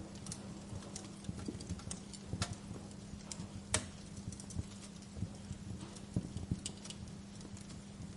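Wood fire crackling in a fireplace: irregular sharp pops and snaps over a low steady hum, with two louder pops about two and a half and nearly four seconds in.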